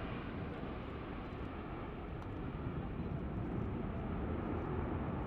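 Airbus Beluga XL's jet engines, a steady rumble of a large airliner flying past.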